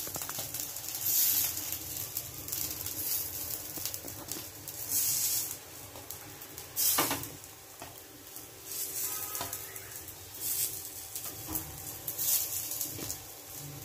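Grated-potato patties (batata wadya) sizzling in a thin layer of hot oil on a nonstick pan as they are laid in, the sizzle swelling in several waves, with a light knock about seven seconds in.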